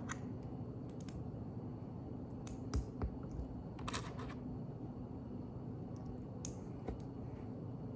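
Plastic Lego pieces being handled and pressed together: scattered light clicks a second or so apart, with a short rustle of pieces about four seconds in, over a low steady hum.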